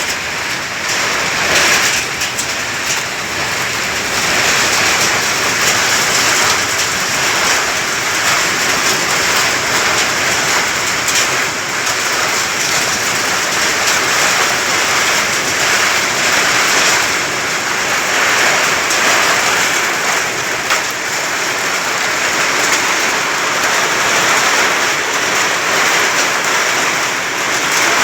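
Steady, loud rushing noise of sandstorm wind and blown sand, swelling and easing slightly.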